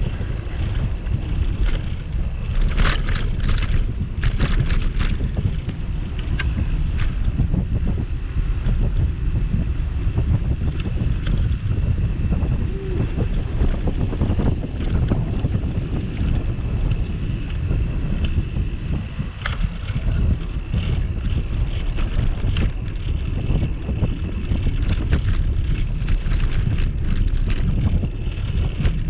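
Wind buffeting the microphone of a camera mounted on a moving bicycle, over a steady low rumble from the ride, with a few sharp clicks and rattles, mostly a few seconds in and again near the middle.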